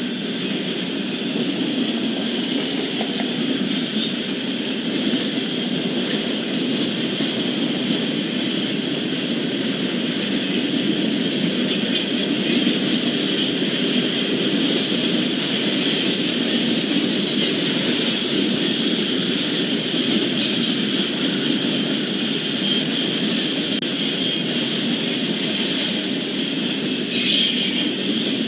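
Norfolk Southern freight train cars rolling past: a steady rumble with a steady high whine over it, and short high-pitched rattling bursts from the wheels every few seconds. The loudest burst comes near the end.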